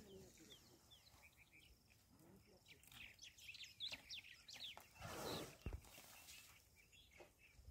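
Faint bush ambience with small birds chirping: a quick run of short calls about three to four seconds in, then a brief rush of noise and a low thump.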